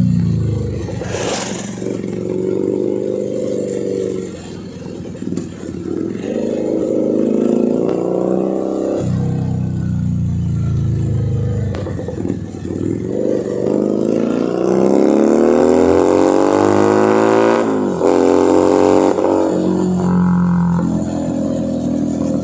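Keeway SCR 250V motorcycle engine and exhaust under way, the revs rising and falling with the throttle. Past the middle it pulls through a gear for several seconds, the note climbing steadily, then drops sharply at a gear change and climbs again.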